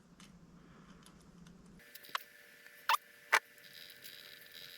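Light clicks and taps of small metal carburetor parts being handled, as the adjustment screws are fitted back into the carburetor body. There are three sharp ticks in the second half over a faint hiss.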